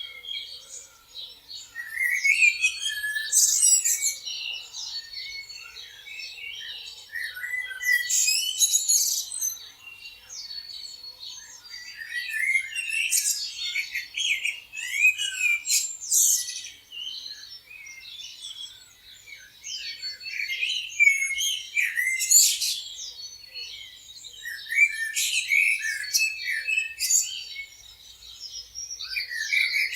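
Several songbirds chirping and singing in overlapping high-pitched phrases, swelling into louder flurries every few seconds.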